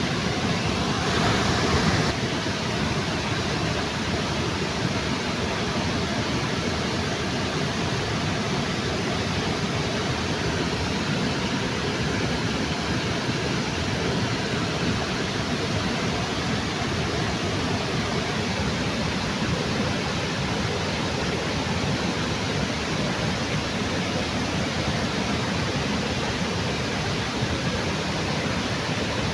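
Steady, even rush of water falling at a river waterfall, with a brief slightly louder swell about a second in.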